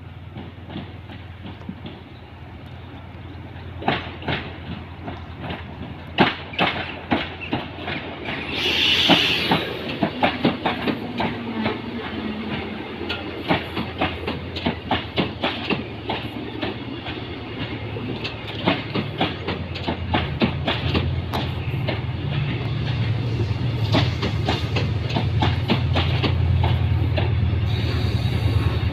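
TransPennine Express train of coaches hauled by a Class 68 diesel locomotive running in alongside the platform, its wheels clicking over the rail joints in a steady clickety-clack. A short hiss comes about nine seconds in, and the locomotive's low engine rumble grows louder near the end as it draws close.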